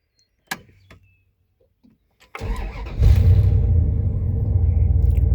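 1997 Dodge Ram 1500's 5.9-litre (360) V8 being started. A click comes about half a second in; the starter cranks briefly from about two and a half seconds, the engine catches about three seconds in and then runs steadily.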